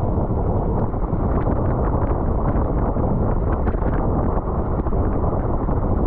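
Wind rushing over the microphone of a camera on a bicycle riding at race speed, a loud steady buffeting with faint scattered ticks.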